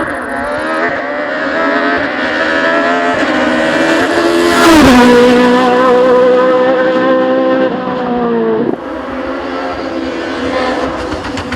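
Racing car engine at full throttle, its note climbing, then dropping sharply at the loudest point about five seconds in as the car passes close by. It holds steady, then dips again near nine seconds.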